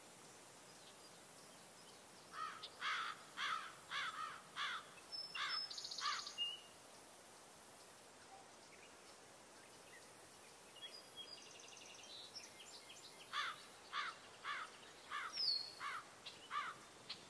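A bird calls a run of about seven or eight sharp, evenly spaced notes, roughly two a second. After a pause of several seconds it gives a second, similar run. A few short, higher chirps and a faint steady outdoor hiss lie underneath.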